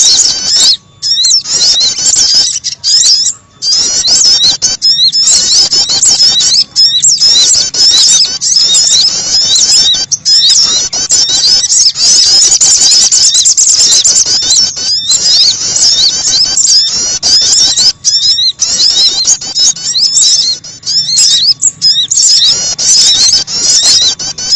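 Dense, rapid high-pitched chirping and twittering of small birds in a recorded lure call of sogon and prenjak birds, used to attract birds for trapping. It runs almost unbroken, with brief gaps every couple of seconds.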